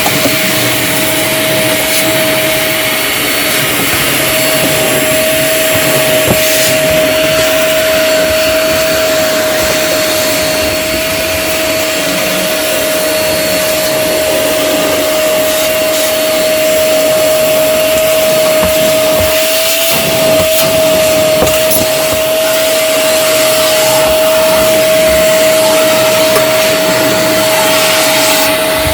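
BACOENG 1200 W ash vacuum running at full suction with a steady whine, picking up wood shavings from a CNC machine, with scattered faint clicks as chips go up the hose.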